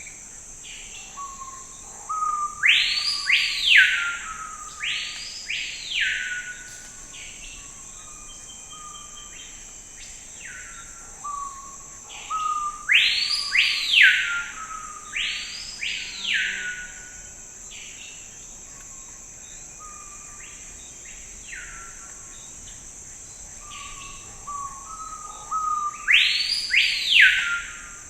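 Forest bird song: a phrase of several loud, arching whistled notes with lower notes between, repeated three times about ten seconds apart, over a steady high hiss.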